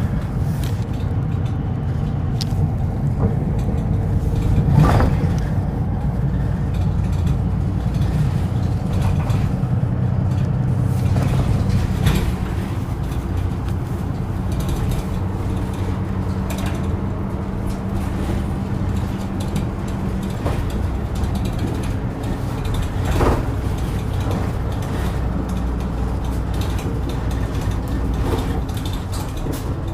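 Route bus under way, heard from inside the cabin: a steady engine and road rumble with a few short rattles and knocks. A low steady hum in the rumble drops away about two-thirds of the way through.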